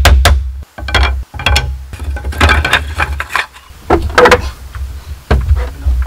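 Bamboo being worked: a few sharp strikes at the start, then irregular wooden knocks and clatter over a low rumble.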